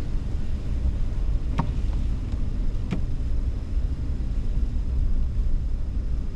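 Steady low rumble of a car driving slowly on a snowy road, heard from inside the cabin, with two short clicks about a second and a half apart.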